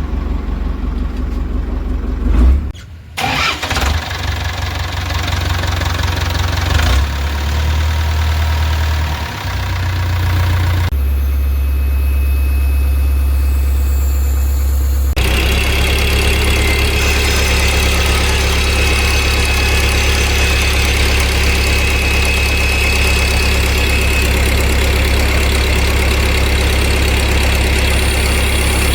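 Heavy diesel engine running steadily, growing louder with more high hiss from about fifteen seconds in.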